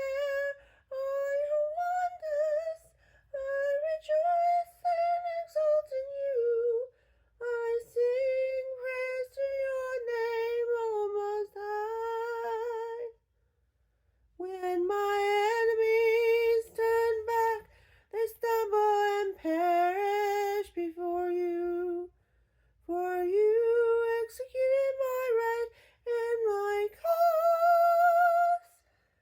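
A mezzo-soprano female voice singing a melody in phrases of a few seconds, with brief pauses between them; the longest pause falls about halfway through.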